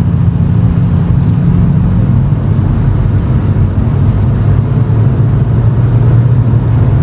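Toyota GX100 Chaser's 1G-FE inline-six exhaust note through a Reinhard aftermarket cannonball muffler, heard from inside the cabin while driving slowly: a steady low drone whose pitch drops about two seconds in and then holds lower.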